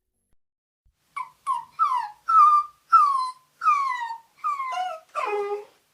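A puppy whining: a quick series of eight or nine short, high whimpers, each falling in pitch, starting about a second in. The last few whines near the end are lower and fuller.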